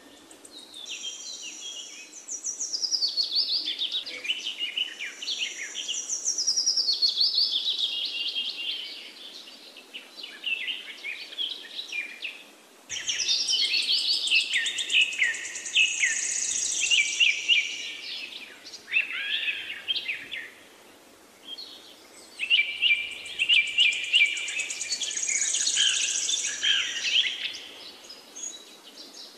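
Birdsong: several birds chirping and trilling in quick, high, overlapping phrases, coming in three long bouts with short lulls between them.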